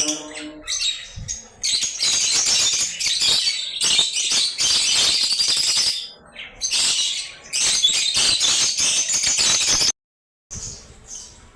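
Lovebirds chattering and screeching together in dense, high-pitched bursts, breaking off briefly about a second in and again around six seconds. The sound cuts out completely near the end, then resumes as quieter chirping.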